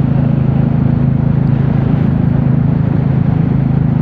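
Royal Enfield Classic 350's single-cylinder engine running steadily at cruising speed, over a steady rush of road and wind noise.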